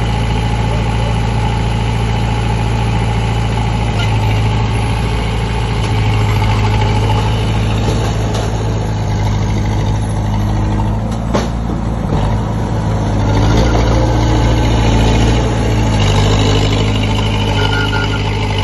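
Komatsu D20P crawler bulldozer's diesel engine running steadily under work, with a single sharp knock about eleven seconds in.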